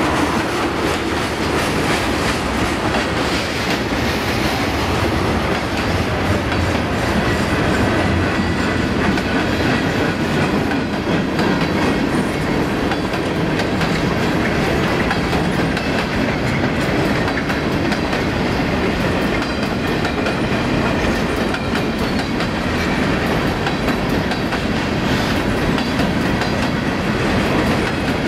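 A mixed freight train of boxcars, covered hoppers and flatcars rolling past: a steady rumble of steel wheels on rail with a constant run of wheel clicks.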